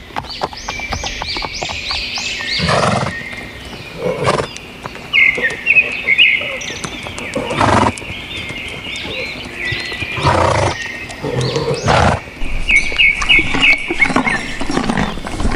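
Horses whinnying over and over, with about five heavy thumps spread through.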